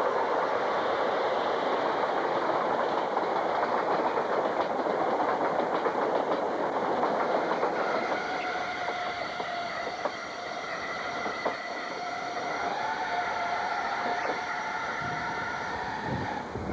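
Train running over jointed rails with a steady rushing clatter. About halfway through, several steady high-pitched tones join in and last to the end.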